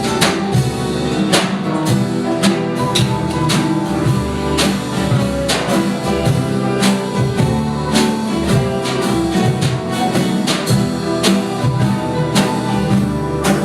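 Live ensemble playing a swing jazz tune, with guitar and drum kit keeping a steady beat under sustained instrumental notes.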